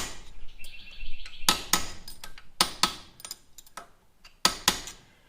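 Metal parts and tools being handled on a motorcycle front fork: a run of sharp metallic clinks and knocks, several in quick pairs. A brief high pulsing squeak comes under them about a second in.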